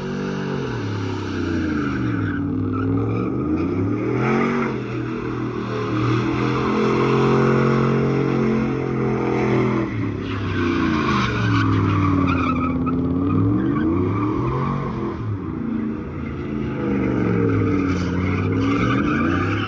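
Truck engine held at high revs during a burnout, its pitch sagging and climbing again several times, over the steady hiss and squeal of spinning tires.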